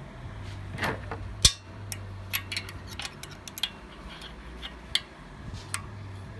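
Small metal clicks and taps at an irregular pace, with a brief scrape and then one sharper click about one and a half seconds in, as a metal tool works a new crankshaft oil seal down into a Honda GCV190 engine's crankcase.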